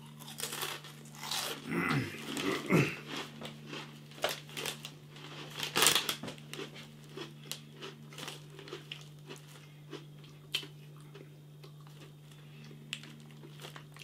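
Close-up crunching and chewing of oven-baked Jacob's Mini Cheddar Sticks. The crunches come thick and fast for the first several seconds, the loudest about six seconds in, then thin out to scattered crunches near the end.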